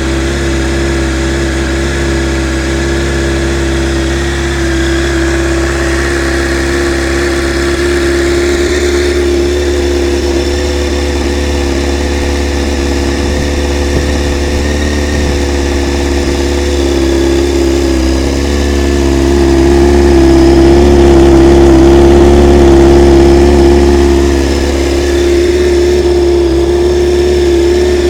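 Honda CBR900RR Fireblade inline-four running at idle through a Honda VFR exhaust silencer, a steady even note. It grows louder for a few seconds past the middle, then settles back.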